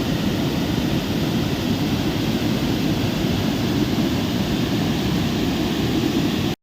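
Steady, loud rushing noise of water, cutting off abruptly near the end.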